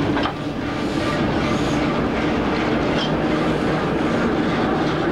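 Railway passenger coaches and a van rolling past, their wheels clicking over the rail joints.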